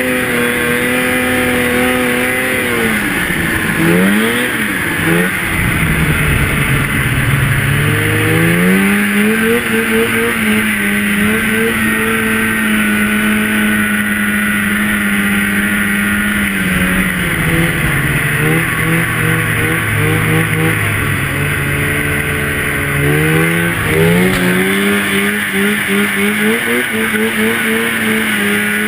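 Two-stroke snowmobile engine running hard through powder. Its pitch holds steady, drops off twice as the throttle eases, and climbs back up each time it opens again.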